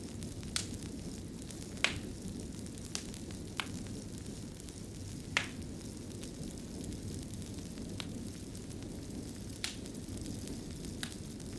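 Wood fire burning in a fireplace: a steady low rush with sparse, sharp crackles, about eight of them, the loudest near two and five and a half seconds in.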